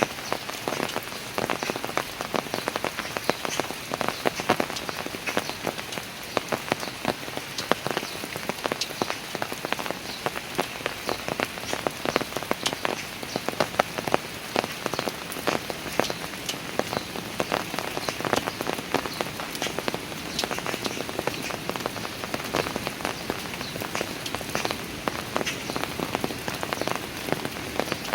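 Steady rain falling, with many close, distinct drops pattering and ticking on hard surfaces among the even hiss of the rain.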